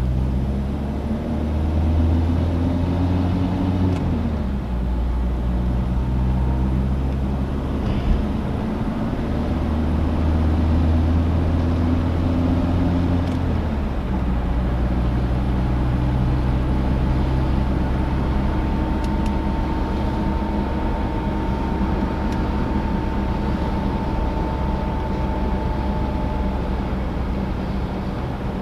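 Citroën DS four-cylinder engine and road noise while driving. The engine pulls up in pitch through a gear and drops at a shift about four seconds in, pulls up again and drops at a second shift about thirteen seconds in, then runs steadily at cruise. A faint thin whine sounds over it through the second half.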